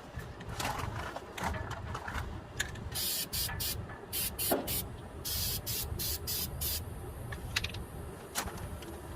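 Flex Seal aerosol can spraying in a run of about ten short hissing bursts, starting about three seconds in and stopping about seven seconds in.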